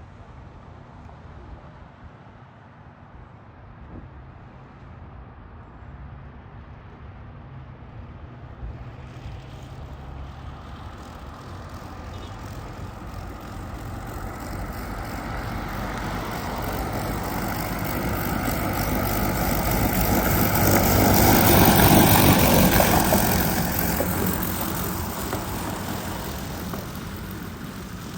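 Fire truck driving past: its engine and road noise build steadily, peak about three-quarters of the way through, then fade as it moves away.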